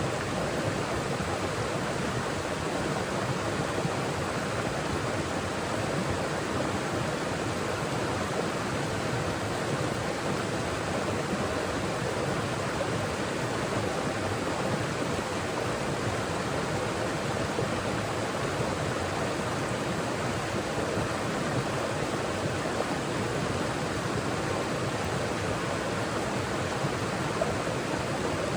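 Mountain forest stream flowing over rocks: a steady, even rush of water with no breaks.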